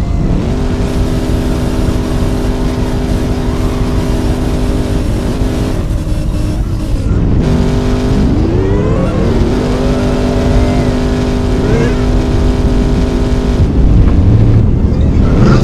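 Car engine revving and held at a steady high pitch for several seconds at a time, with a quick drop and rising rev about eight seconds in.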